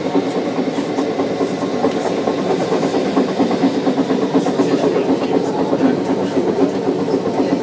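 Sapporo streetcar running along its street track, heard from inside the car: a steady rumble of wheels on rail and the car's running noise.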